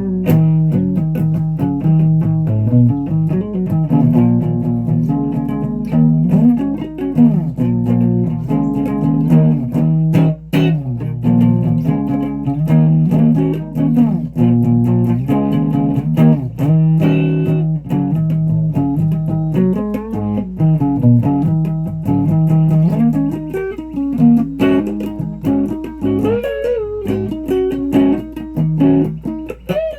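Guitar playing: plucked notes with bends in the low and middle range, steady throughout.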